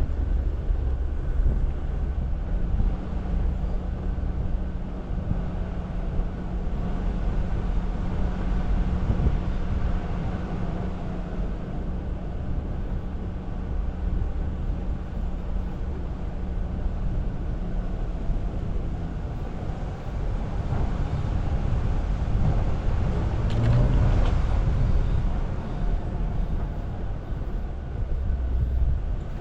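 Jeep Wrangler crawling along a snowy off-road trail: a steady low engine and drivetrain rumble with a held tone for much of the time. There is a louder stretch with a few knocks about three quarters of the way through.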